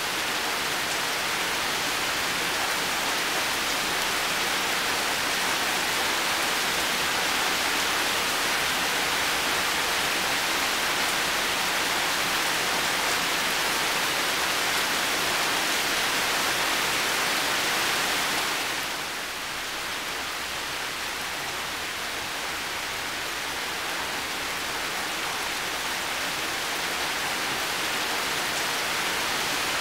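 Heavy rain falling steadily in a garden, a dense even hiss. It eases slightly about two-thirds of the way through, then builds back.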